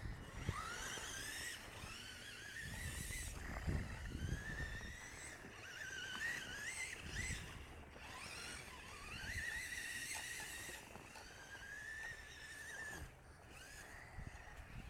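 Electric motor of a 2WD Traxxas Rustler RC truck, a Castle Sidewinder SV3 controller driving a 3800 kV brushless motor, whining as the truck is driven in bursts: the pitch rises and holds about six times, with low rumbling noise beneath.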